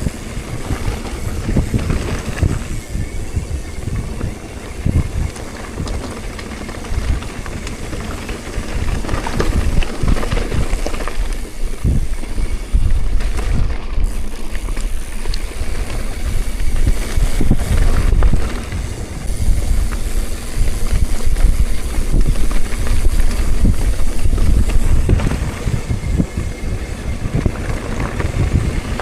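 Wind buffeting the microphone on a moving ride, a loud, irregular low rumble that swells and eases.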